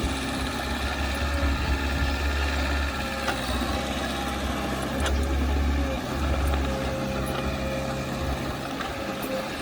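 Diesel engine of heavy earthmoving machinery running steadily, with a few faint clicks.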